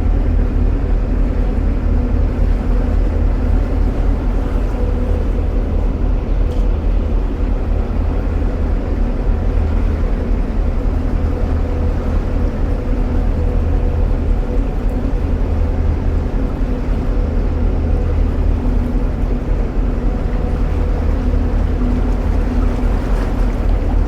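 Narrowboat's diesel engine running steadily at cruising speed inside a long canal tunnel: a constant low drone with a steady whirring tone over it.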